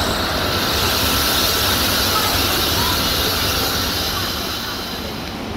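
Passenger train running at speed: a steady rush of wheel-on-rail rolling noise and hissing air past the open window, beginning abruptly and easing slightly near the end.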